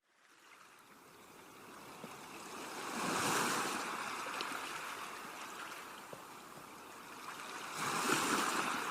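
Rushing water noise with no calls in it, swelling about three seconds in and again near the end.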